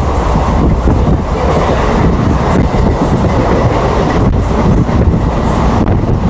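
Electric suburban passenger train running at speed, heard from on board: a steady rumble of wheels on rail with a few sharp clicks over rail joints.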